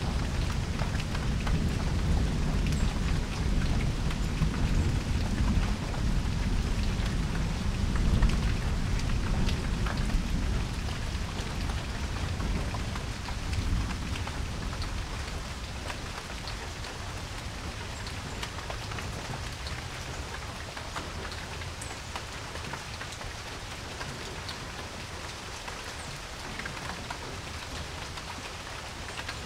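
Steady rain falling on a porch, with many separate drops and drips ticking through the hiss. A low rumble of thunder rolls under it through the first half and dies away about halfway through.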